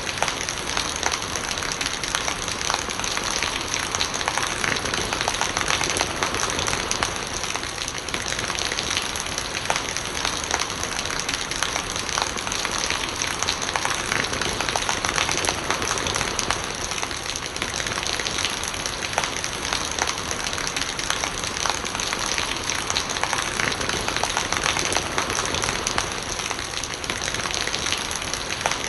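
Steady rain falling, with countless small drop hits and rainwater running.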